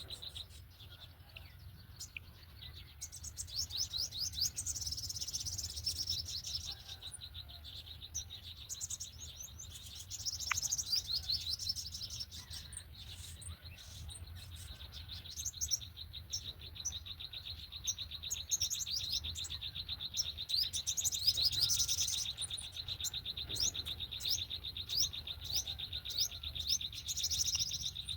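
Small birds chirping in bursts of rapid repeated notes over a steady, high, fast-pulsing insect trill.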